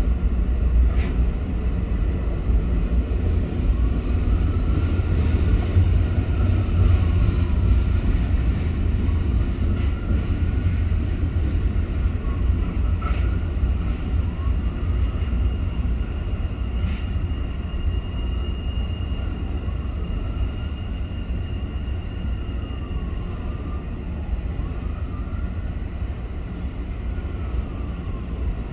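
Double-stack intermodal freight train rolling steadily past a grade crossing: a continuous low rumble of wheels on rail, with a few sharp clacks and a thin high squeal for several seconds midway.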